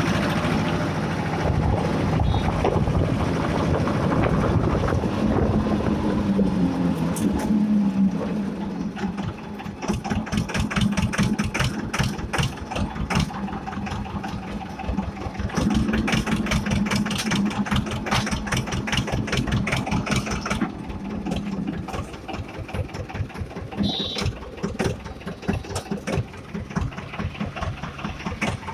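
Escort 335 tractor's diesel engine running. About eight seconds in the engine note drops and slows, and its rapid even beats come through clearly, as at low revs.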